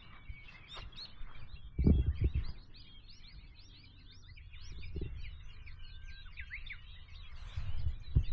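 Many small birds chirping and singing at once, a dense run of short rising and falling notes, with a few low rumbles beneath, the loudest about two seconds in.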